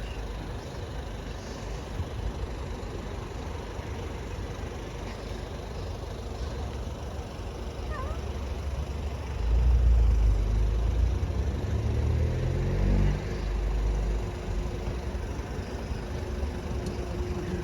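A vehicle engine rumbling. It grows loud about halfway through, revs up in rising steps, then settles into a steady hum.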